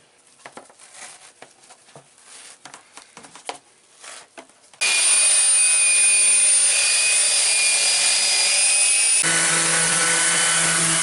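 Faint crackling of dry fiberglass mat being torn by hand, then about five seconds in an electric sander starts up and runs loud and steady with a high whine. About nine seconds in its sound changes abruptly to a lower hum.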